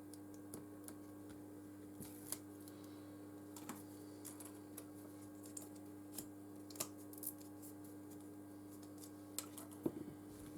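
Faint, scattered clicks and taps of small phone parts and hand tools being handled during phone repair, over a steady low electrical hum.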